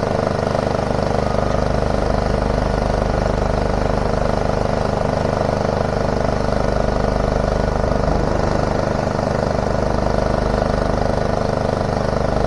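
Heavy diesel plant machinery running steadily: a constant engine drone that holds the same level throughout.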